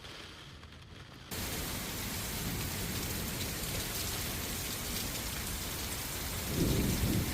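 Heavy rain pouring down, cutting in suddenly about a second in, with a low rumble of thunder near the end.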